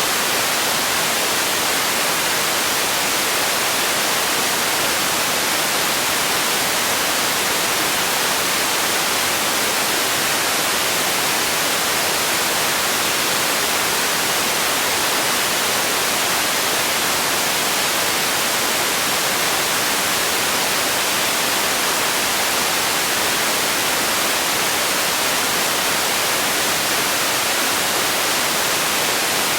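Generated white noise: a steady, unchanging hiss, strongest in the high range.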